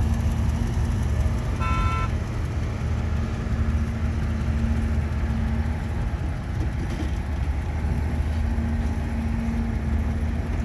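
Heavy diesel engine running steadily while loading soil, with one short horn beep about two seconds in.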